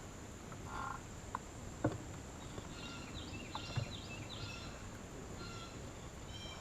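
Summer riverside ambience: a steady high insect drone with bird chirps repeated in quick series, and a few sharp clicks about 1.5, 2 and 4 seconds in.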